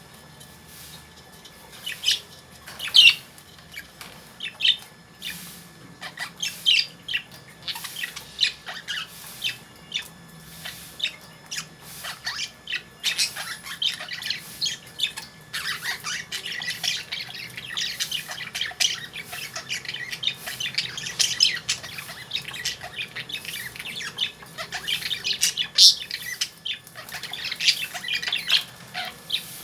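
Caged lovebirds chirping and squawking: short shrill calls, scattered at first, then a busy continuous chatter of several birds from about halfway through.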